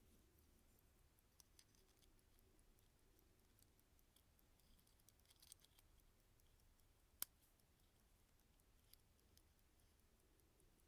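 Vintage Thiel mechanical watch movement ticking faintly and evenly, with a few louder clicks and one sharp click about seven seconds in.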